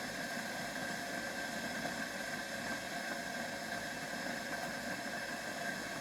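Steady background hiss with a faint constant high whine, no distinct events.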